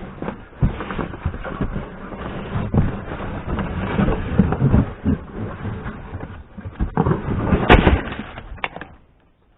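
Rustling, scraping and knocking as the just-freed roof headliner panel is handled and worked out of the car's cabin, with a sharp knock near the end; the noise stops abruptly about nine seconds in.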